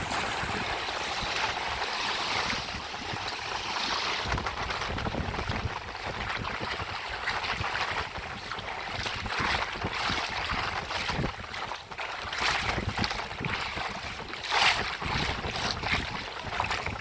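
Wind buffeting the microphone over lapping, splashing lagoon water, with uneven gusts and surges.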